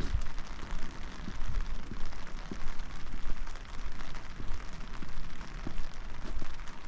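Steady rain, an even patter with many small drop ticks, over uneven low thuds and rumble.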